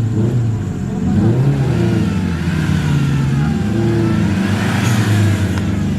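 Suzuki Vitara 4x4's engine revving up and down under load on an off-road trail, with a higher whine rising and falling alongside it in the middle.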